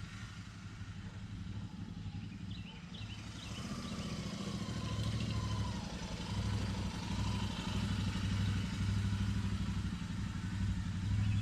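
Royal Enfield Interceptor 650's 648 cc parallel-twin engine running, growing louder and pulsing from about four seconds in. Faint bird chirps are heard early on.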